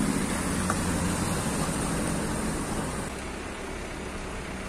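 Car engine running with a steady hiss of road and water noise, heard from inside the car; the low hum drops a little about three seconds in.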